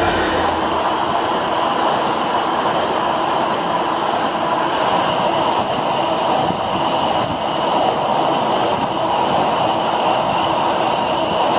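Freight train of open box wagons rolling past close by, hauled by a Class 66 diesel locomotive: a loud, steady noise of wheels running on the rails that goes on without a break.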